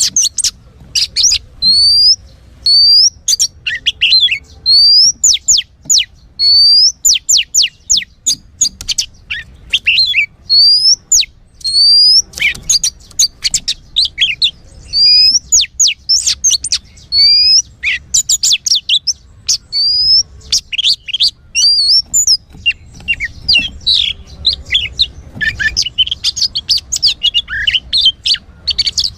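Song of an untrained young Oriental magpie-robin (kacer bahan): loud rising whistled notes repeated roughly once a second, mixed with quick chirps, giving way to a denser run of chattering notes for the last few seconds.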